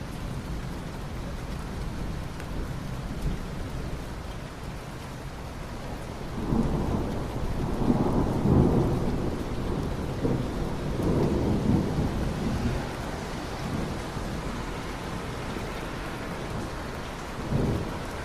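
Steady rain with a roll of thunder that swells about six seconds in and dies away by about twelve seconds, then a short low rumble near the end.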